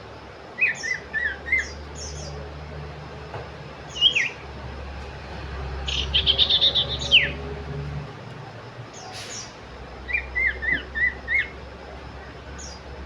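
Common iora (cipoh) singing: short phrases of four or five quick whistled notes, repeated, with a fast trill in the middle.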